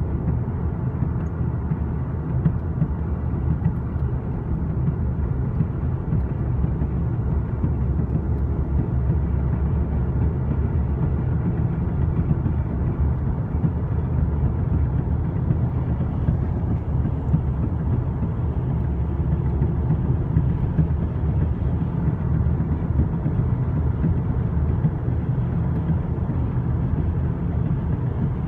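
A 2013 Volkswagen CC R-Line driving, with a steady low drone of tyre and road noise: the weird tire noise that the owner is trying to capture.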